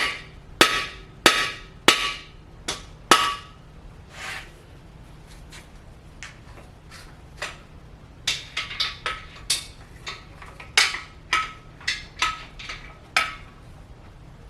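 Hammer blows on a cam bearing installer, driving a cam bearing into the bore of a Ford 292 Y-block: sharp metallic strikes with a brief ring. About six come in the first three seconds, then after a pause another run of strikes from about eight seconds in.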